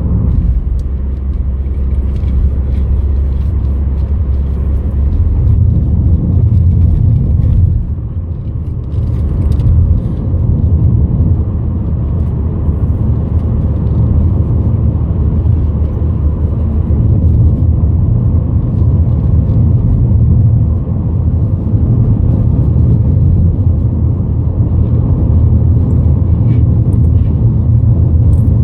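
Road noise of a moving car heard from inside: a steady, loud low rumble that eases briefly about eight seconds in.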